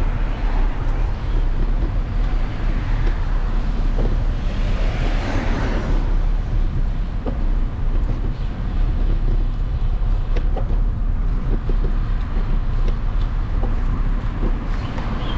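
Wind buffeting the microphone with a steady low rumble while riding along a road. A passing vehicle swells up and fades away around five seconds in.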